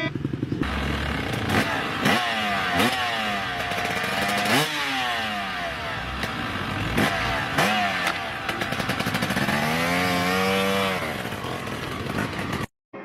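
Motocross bike engine revving hard, its pitch climbing and dropping again and again as the throttle opens and closes, with a few sharp cracks along the way. The sound cuts out abruptly near the end.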